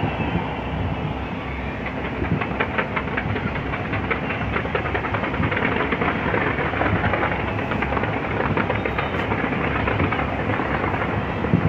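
Fireworks display: a continuous rumble of bursts with dense crackling, thickest from about two to nine seconds in.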